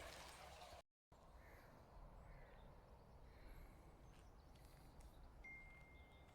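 Near silence: faint outdoor background, with one short, thin steady whistle-like tone near the end.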